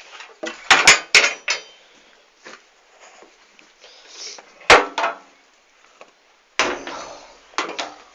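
Sharp clanks and knocks of hard objects being handled: a quick cluster about a second in, one hard knock near the middle, and a few more near the end.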